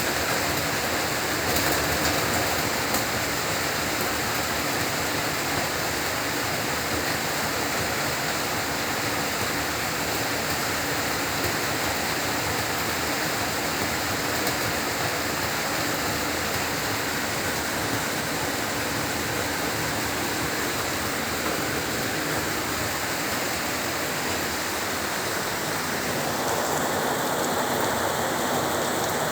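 Heavy rain falling steadily as a dense, even hiss, its tone shifting slightly a few seconds before the end.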